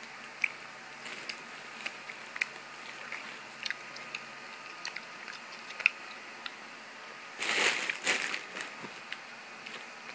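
Close-up mouth sounds of chewing a piece of chocolate candy: small wet clicks and smacks scattered throughout, with a brief louder rush of noise about three-quarters of the way in.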